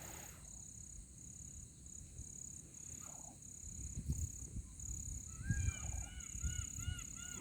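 Low rumbling and handling thumps under a steady, pulsing high insect drone. From about five seconds in, a bird gives a rapid series of short, arched call notes, about three a second.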